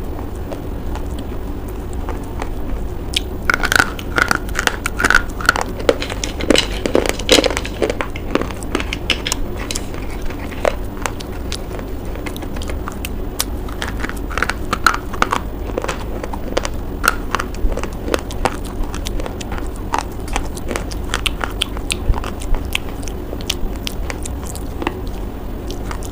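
Close-miked biting and crunching of a hard white chalky bar: irregular crisp cracks and crackles, thickest about three to eight seconds in and again in the middle, over a steady low hum.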